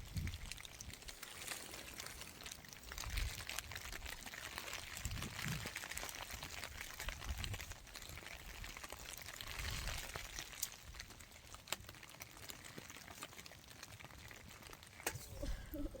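Steady rain falling, with uneven gusts of wind rumbling on the microphone and scattered drops clicking.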